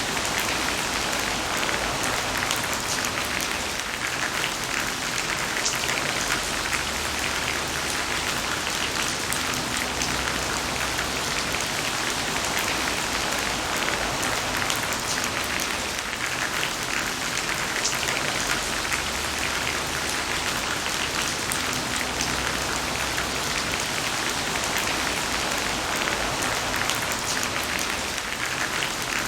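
Heavy rain falling steadily on a surface: a dense, even hiss with fine patter of individual drops and a faint low rumble underneath.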